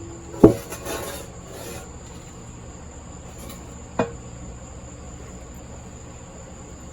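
Metal tools clanking on a floor buffer's engine during repair work: a sharp clank about half a second in followed by a brief scrape, and a second ringing clank about four seconds in, over a steady faint hum.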